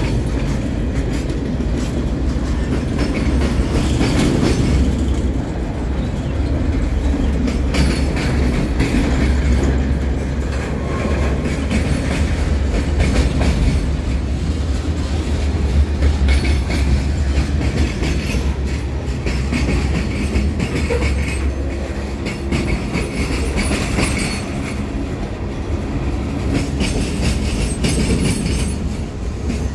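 Freight train's covered hopper cars and boxcars rolling past close by: a steady low rumble of steel wheels on the rails, with repeated clicks and clacks from the wheels and couplings.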